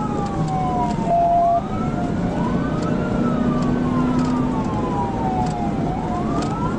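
Police cruiser siren wailing in slow rising and falling sweeps, two sweeps overlapping, over the cruiser's engine and road noise at pursuit speed. A brief, louder steady tone sounds about a second in.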